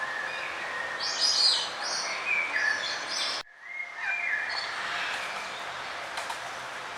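Songbirds chirping and singing in quick, varied phrases over a steady background hiss. The sound cuts out abruptly for a moment about three and a half seconds in, then birdsong resumes.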